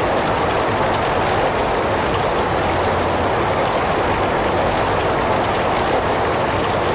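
Heavy rain falling in a steady, even hiss with no distinct drops or breaks.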